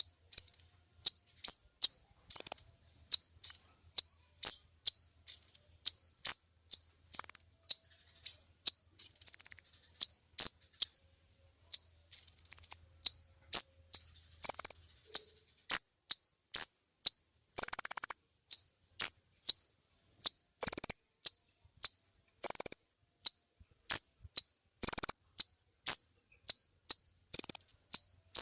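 A kolibri bird's song played back as a lure call: rapid, very high, thin chirps, about two a second, with a few longer drawn-out notes among them and clean silence between.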